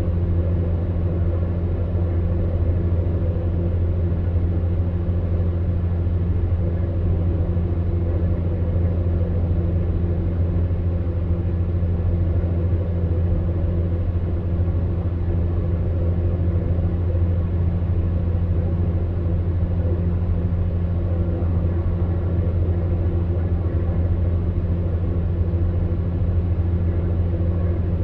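Electric fan heater running steadily: a low, even hum from its motor with a few fainter overtones, over a soft rush of air from the fan.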